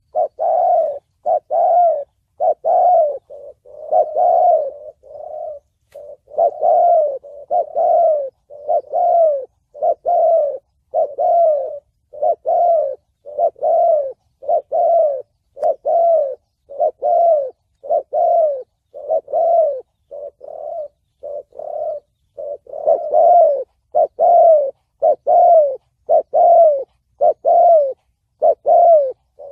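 Spotted dove cooing in the deep 'thổ bầu' voice: a long, unbroken series of short coo notes, about one a second, some louder and some softer.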